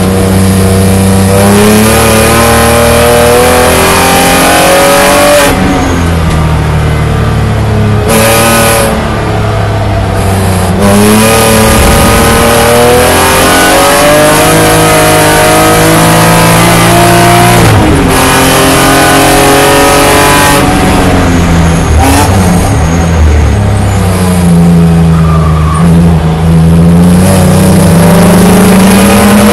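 BMW E9x 3 Series race car engine heard from inside the cockpit at racing speed. The pitch climbs under acceleration and breaks off at gear changes and drops for corners, over and over.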